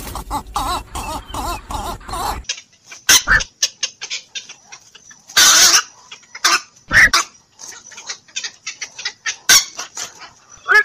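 Black-crowned night heron calls: a quick run of croaks in the first couple of seconds, then short harsh single calls every second or two.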